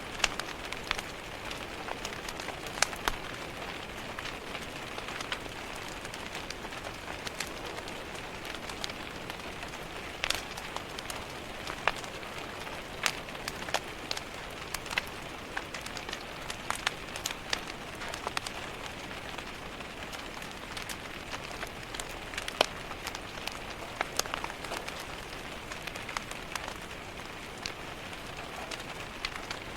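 Steady rain pattering on a window, with a wood fire crackling in a fireplace: a constant hiss broken by irregular sharp pops and taps.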